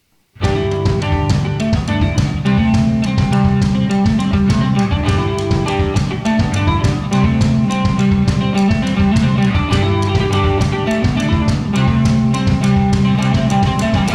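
Live rock band of electric guitar and drum kit starting together about half a second in, after a moment of silence, and playing on without vocals with a steady, busy drum beat.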